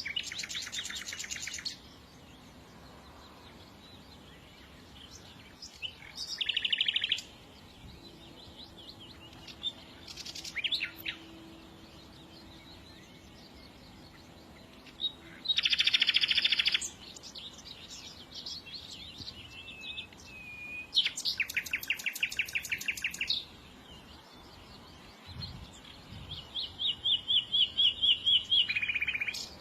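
Songbirds singing: loud bursts of rapid trills every few seconds, with softer chirps in between.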